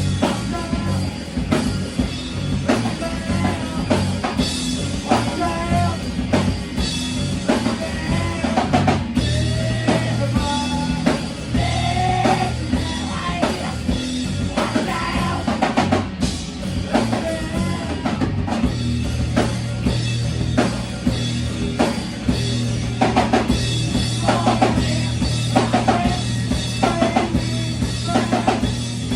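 Live rock band playing, with a drum kit keeping a steady beat and a voice singing over it.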